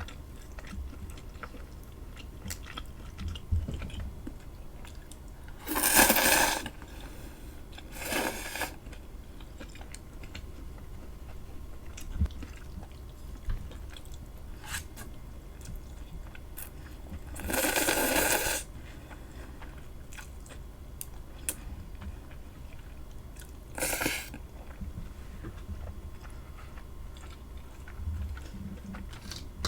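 Close-miked eating: crunchy food bitten and chewed, with four loud crunches, two of them lasting about a second, between softer small clicks of chewing.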